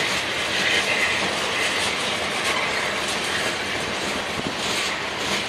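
Loaded tank cars of a freight train rolling past at speed: a steady rumble and clatter of steel wheels on the rails, with a high wheel squeal in the first half.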